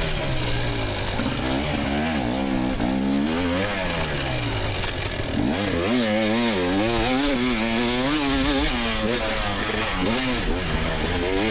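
2024 GasGas EX300 two-stroke engine revving hard under race riding, its pitch swinging up and down about every half second as the throttle is worked.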